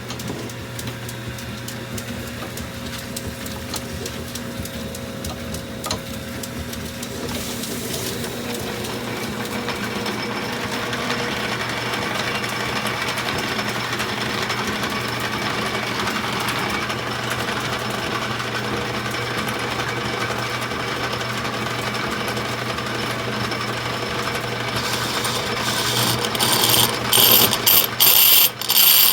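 Metal lathe running and cutting a steel bar: a steady motor hum with a fine, rapid ticking, the cutting noise growing louder about eight seconds in. Near the end come several loud, harsh bursts of cutting noise.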